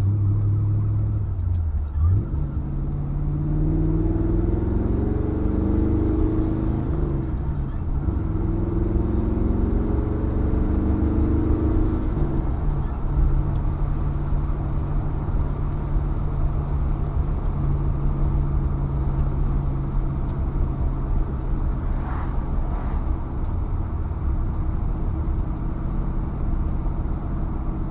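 A 1964 Chevrolet Impala SS's 300-horsepower 327 V8 running through a 2.5-inch exhaust, heard from inside the car as it accelerates. The engine note rises twice with a drop between, as from a gear change about seven seconds in, then settles into a steady cruise.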